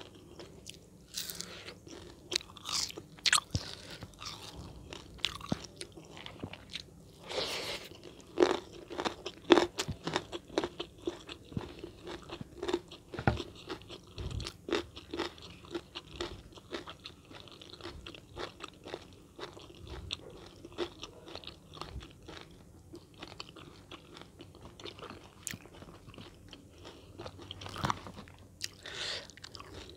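A person eating close to the microphone: irregular crunchy bites and chewing, loudest about a third of the way in.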